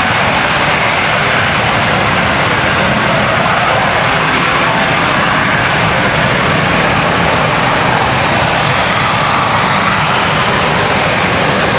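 Aircraft engine noise, loud and steady: a dense rushing sound that neither rises nor falls.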